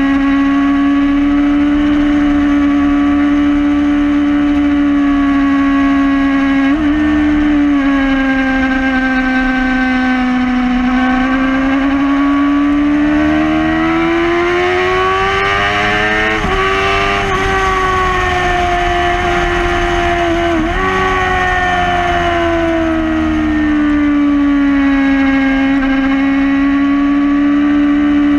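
2011 Yamaha R6 inline-four sport bike engine running hard at high revs on a race track. The note's pitch drifts slowly down, rises for several seconds and falls again, with brief breaks about 7 and 21 seconds in.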